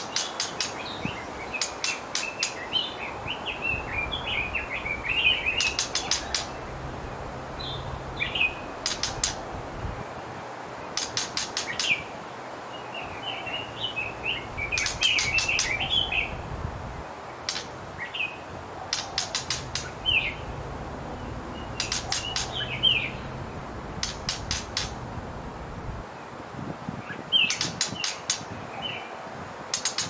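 White-rumped shama calls: every few seconds a quick run of three to five sharp clicking notes, with bursts of high twittering chirps in between.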